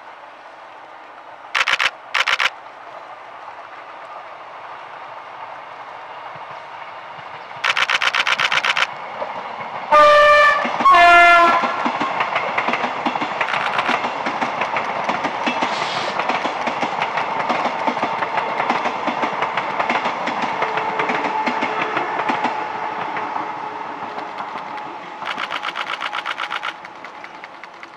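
EMU100 electric multiple unit express sounding its horn in two short blasts about ten seconds in, then passing with a steady rumble and rhythmic wheel clatter over the rail joints for some fifteen seconds, easing off near the end. A few short, loud buzzing bursts come before and after the horn.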